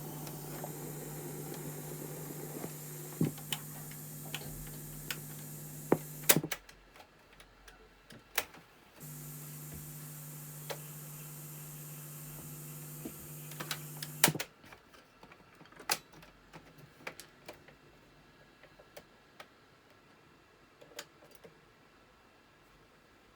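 Panasonic RX-FT590 boombox giving off a steady hiss with a low hum from its speakers. The hiss cuts off with a click about six seconds in, comes back about three seconds later and cuts off again a little past the middle. Scattered sharp clicks of its buttons and switches run throughout and continue on their own near the end.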